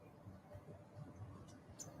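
Near silence, with two faint high ticks near the end.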